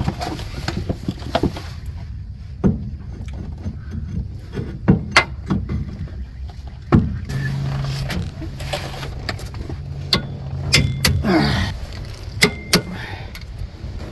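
Scattered metallic clicks and knocks of hand tools and parts being handled under a pickup truck, over a low rumble, with a steady low hum for about four seconds in the middle.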